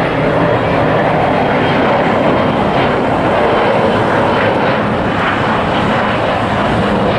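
Jet airliner engines, a loud steady noise with no break or change in level.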